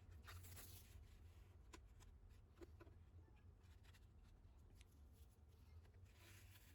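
Faint scratching and scraping of a long bristle brush being worked inside a dryer vent pipe to clear out lint, in scattered short strokes.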